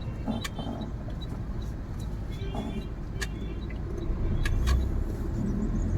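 A 2011 Mahindra Scorpio mHawk's 2.2-litre four-cylinder diesel running on the move, heard from inside the cabin as a steady low rumble of engine and road. The rumble grows somewhat louder after about four seconds, and a few light clicks and rattles sound over it.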